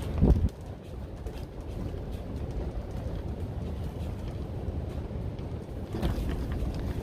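High wind buffeting a plastic-covered cattle panel greenhouse: a strong gust just after the start, then a steady rushing rumble, with another gust about six seconds in.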